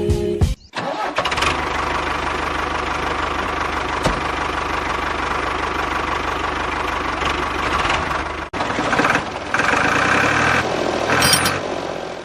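Small motor running steadily, with a brief break about eight and a half seconds in.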